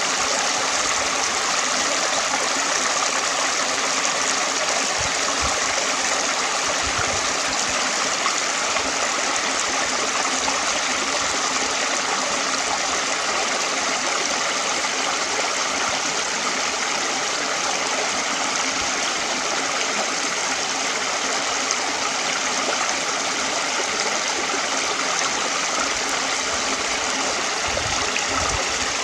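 Stream running steadily: continuous rushing and gurgling water flowing over rocks.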